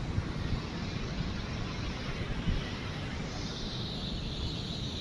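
Wind rumbling on the microphone over a steady rushing noise.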